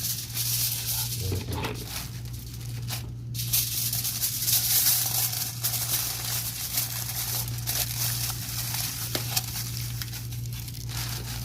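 Wood campfire crackling and hissing, with dense fine crackles throughout over a steady low hum.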